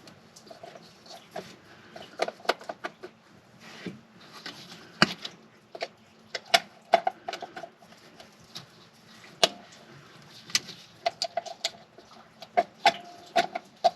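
Irregular sharp clicks and taps, some with a brief ring, from a Vanagon's distributor cap and its metal spring clips being handled and fitted during a tune-up.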